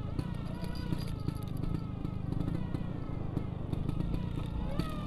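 Vespa scooter engine running on the move, its note slowly sinking and then rising again near the end as the throttle opens, with light rattles and clicks over the steady low rumble.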